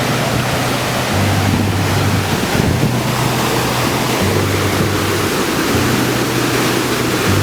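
Waterfall and fast-flowing stream rushing steadily, with a low, gusting wind rumble on the microphone.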